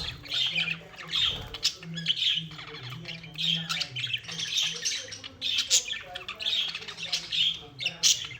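Pet budgerigars squawking and chattering: a string of short, harsh calls that repeat every half second or so.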